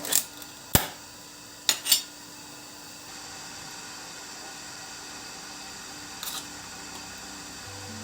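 Several sharp clicks and light knocks, four close together in the first two seconds and a softer one about six seconds in, over a faint steady hiss.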